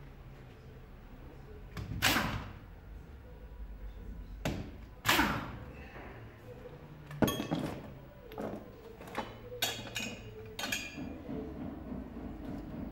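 A series of sharp metallic knocks and clanks from work on the car, a few seconds apart, with a quicker run of knocks about nine to ten seconds in.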